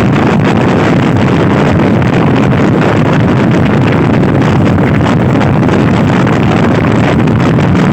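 Loud, steady wind buffeting the microphone of a Honda Scoopy-i scooter ridden at speed, drowning out most other sound.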